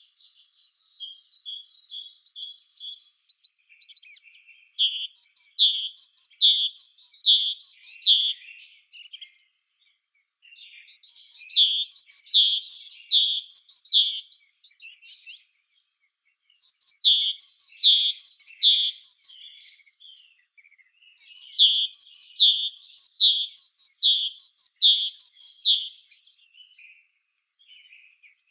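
A songbird singing in repeated phrases, each a run of high two-part notes that slide down in pitch, about two a second, with pauses of a few seconds between phrases. Near the start there is a quicker series of short twittering notes.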